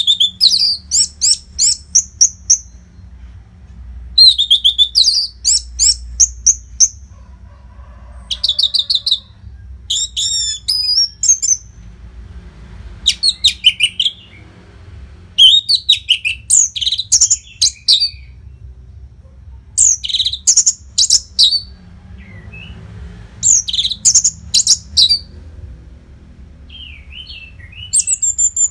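Orange-headed thrush song: phrases of fast, rising and falling whistled notes, repeated every few seconds with short gaps, over a faint low hum.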